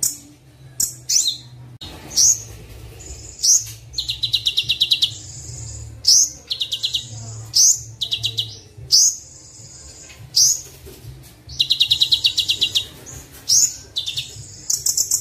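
Sunbird (Kolibri Wulung) song from a training recording: high, sharp chirps broken by several fast, rattling trills of repeated notes, over a faint steady low hum.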